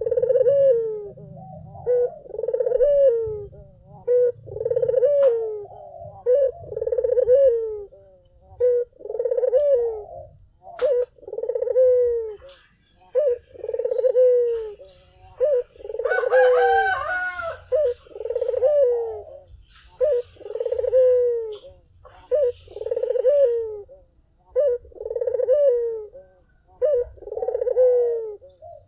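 Puter (domestic ringneck dove) cooing repeatedly, about one coo a second, each coo falling slightly in pitch. About halfway through comes a brief, higher and brighter call.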